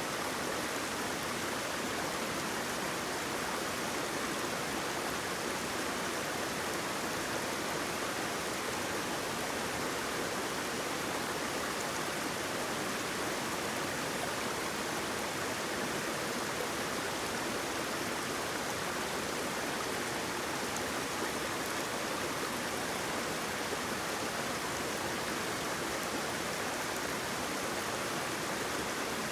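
Running water: a steady, even rush and splash, with little deep rumble and no change throughout.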